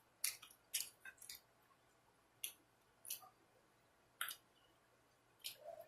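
A person eating close to the microphone: a handful of short, wet mouth clicks and smacks while chewing, spaced irregularly with quiet gaps between.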